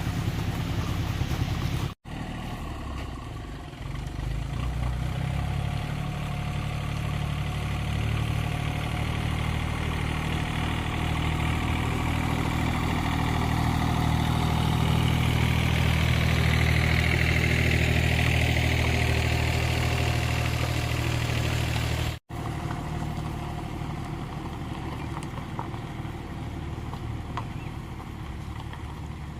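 An engine idling steadily, the sound cut off abruptly twice and resuming each time.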